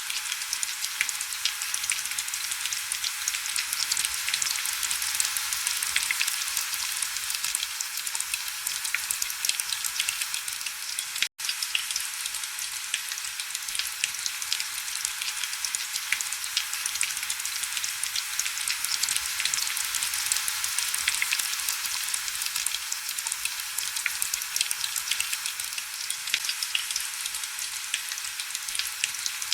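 Heavy rain on window glass: a steady, dense crackling hiss with little low rumble. It drops out for an instant about eleven seconds in.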